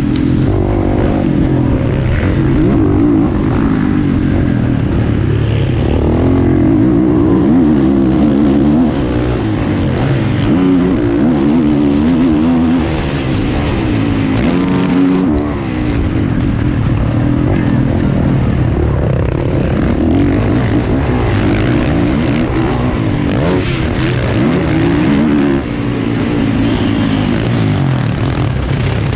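450cc motocross bike engine running hard under load, its pitch rising and falling over and over as the throttle opens and closes.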